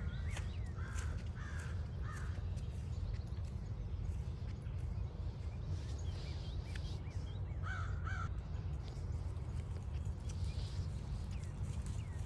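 American crow cawing: three caws about a second in and two more about eight seconds in. Small birds give short rising chirps in between, over a steady low rumble and scattered footstep clicks on the trail.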